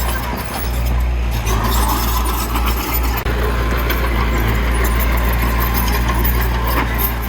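Heavy diesel engine of earthmoving machinery running steadily, a deep continuous hum, with a few faint clanks.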